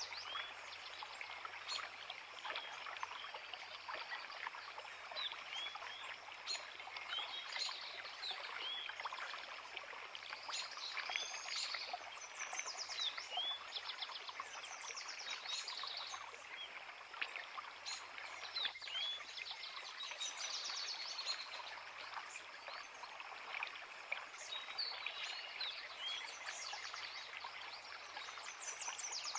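A creek running steadily, with several small songbirds singing over it: short rising chirps and quick rapid trills, many times.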